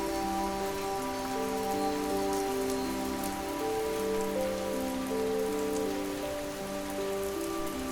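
Steady gentle rain, with soft sleep music of slow, held notes moving in a calm melody.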